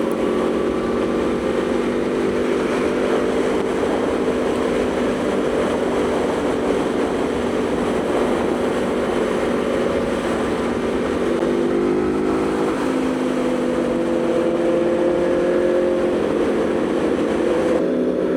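Aprilia Tuono V4 motorcycle's V4 engine running steadily at cruise under wind noise; the engine note shifts in pitch about twelve seconds in.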